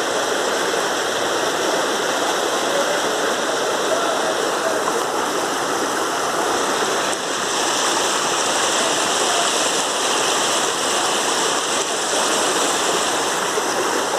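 Storm runoff from heavy rain, rushing steadily like a stream in flood.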